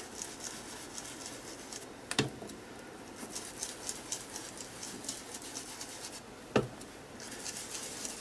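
Foam ink-blending tool dabbing and rubbing distress ink onto a paper journal page, a fast scratchy patter of small ticks, with two sharp knocks, one about two seconds in and one later on.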